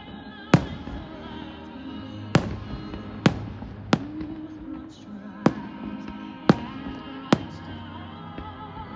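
Aerial fireworks shells bursting, about seven sharp booms at irregular intervals a second or so apart, over steady background music.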